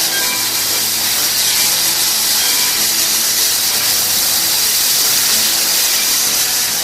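Steam locomotive No. 93 giving off a loud, steady hiss of escaping steam while being fired up.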